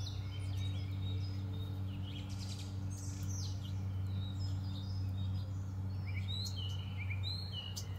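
Small birds chirping in many short, downward-sliding calls, with a few sharp ticks near the end, over a steady low hum.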